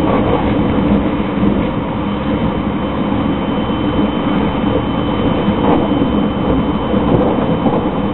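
Steady running noise inside a JR 681/683 series limited express electric train travelling at speed: a continuous rumble of wheels on the track with no distinct clicks or breaks.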